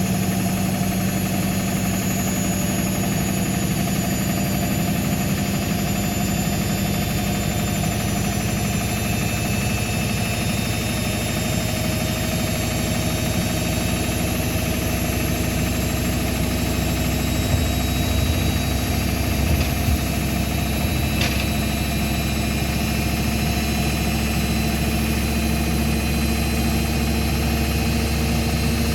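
Indesit MTSWA 61053 washing machine spinning, a steady motor hum and whine with a few tones drifting slowly in pitch; the low hum grows stronger near the end.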